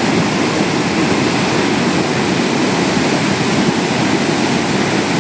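Loud, steady rushing of a flooded hill river or torrent, an unbroken wash of water noise.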